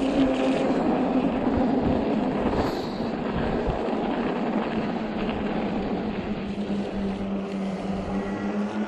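Electric fat-tire e-bike's rear hub motor whining steadily while riding, its pitch sinking slightly about two and a half seconds in and then holding. Wind buffets the microphone and the tires make rolling noise underneath.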